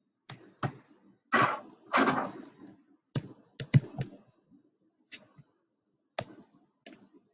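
Irregular clicks and taps of keys being pressed, about a dozen, as figures are keyed in for a calculation. Two of them, about a second and a half and two seconds in, are louder and longer, with a short rustle.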